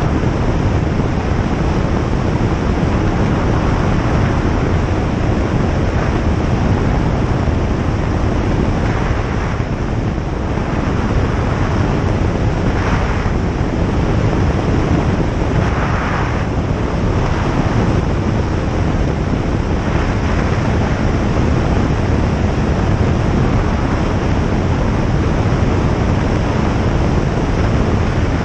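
Cabin noise of a single-engine piston light aircraft in flight: a steady, loud drone of engine and propeller mixed with airflow.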